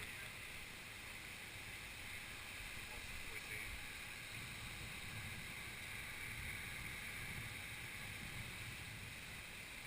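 Wind rumbling on the microphone over a steady rushing hiss.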